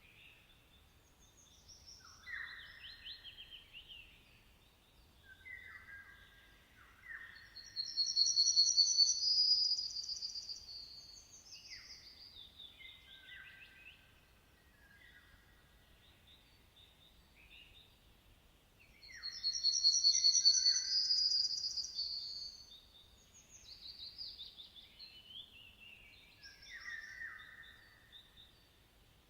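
Songbirds chirping and singing, with short whistles and chirps. Twice a loud, rapid high trill lasts about two and a half seconds, once about a quarter of the way in and again about two-thirds of the way through.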